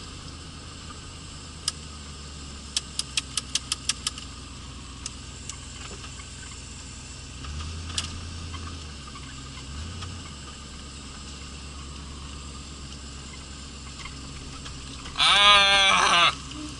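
1983 Pontiac Trans Am's 305 V8 running steadily while driving, heard from inside the car, getting briefly louder twice midway. A quick run of about eight clicks comes about three seconds in, and a loud, wavering pitched sound lasts about a second near the end.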